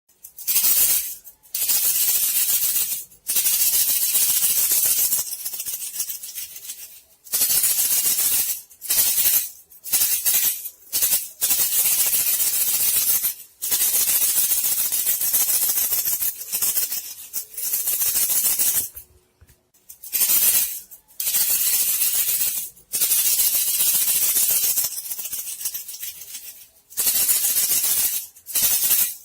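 Rattling, hissing lure call for attracting bandicoot rats, in bursts of a second or two with short breaks between them.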